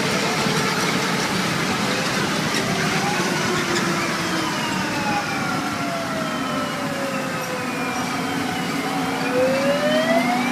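A wailing siren, its pitch rising, then falling slowly over several seconds and rising again near the end, over steady background noise.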